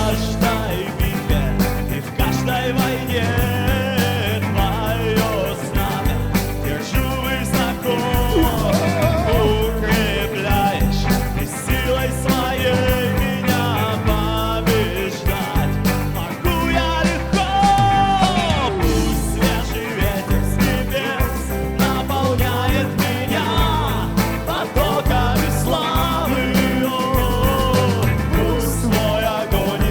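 A church worship band playing an instrumental stretch of a rock-style song with a steady beat and a wavering lead melody line.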